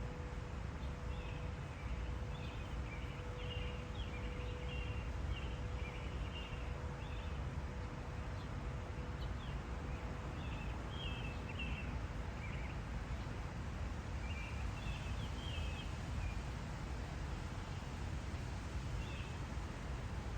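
Small birds chirping in short bursts, several times, over a steady low rumble of outdoor background noise and a faint steady hum.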